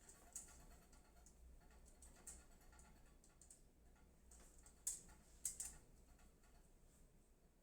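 Faint, scattered clicks and taps of hands handling computer parts, with a few sharper clicks about five seconds in.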